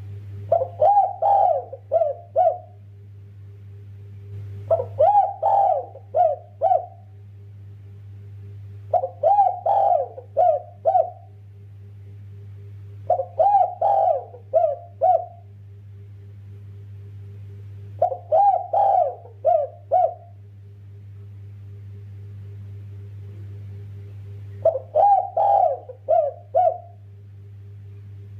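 Derkuku dove cooing: six song phrases a few seconds apart, each a quick run of coos ending in two short separate notes. A steady low hum runs underneath.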